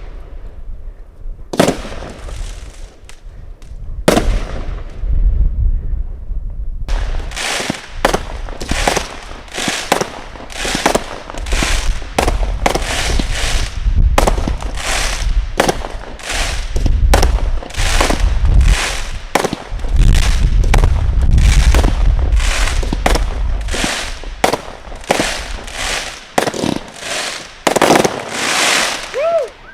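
Consumer firework cakes firing: a few single shots with crackling tails, then from about seven seconds in a fast run of shots and bursts, roughly two a second, over a low rumble.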